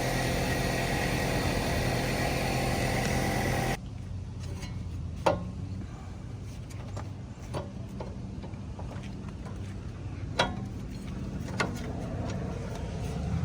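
A steady mechanical running noise, engine-like, that cuts off abruptly about four seconds in. It leaves a lower, quieter hum broken by three sharp clicks.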